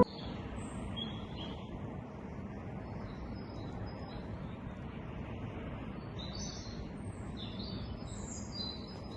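Small birds chirping on and off, more often near the end, over a steady low outdoor background noise.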